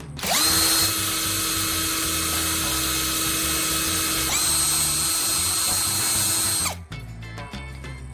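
Electric motor-driven power tool running at high speed with a whirring whine. It spins up about a third of a second in, its pitch steps up a little about four seconds in, and it cuts off with a short falling whine near the seven-second mark.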